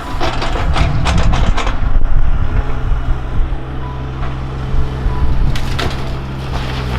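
Heavy machine's diesel engine running steadily while it crushes the wooden structure of an old mobile home, with bursts of cracking and splintering in the first two seconds and again near the end.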